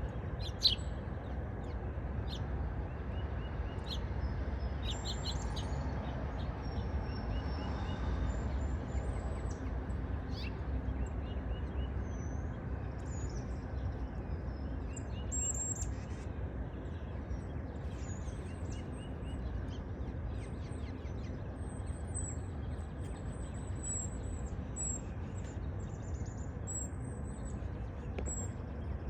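A songbird singing, with short high chirps and brief call notes repeated throughout, over a steady low rumble. A single sharp click sounds just under a second in.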